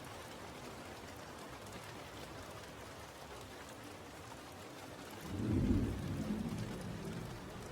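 Steady rain, with a low rumble of thunder swelling about five seconds in and dying away over the next two seconds.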